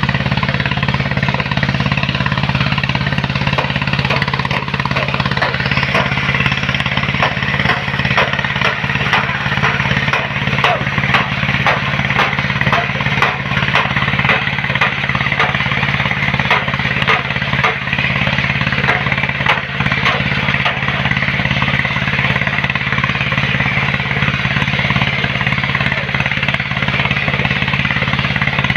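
Heavy machine engine running steadily at constant speed, with a continuous rattling clatter over it.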